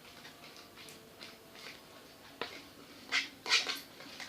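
Homemade slime being stirred in a bowl: short, sticky, wet squelches, the loudest pair a little after three seconds in.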